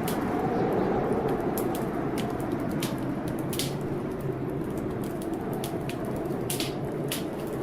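Wood fire crackling in a fireplace, with irregular sharp pops, over a steady rumbling storm noise.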